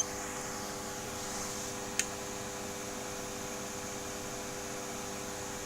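Steady electrical hum from the power supply of a GU81M vacuum-tube heater, over a faint fan hiss, with a single short click about two seconds in.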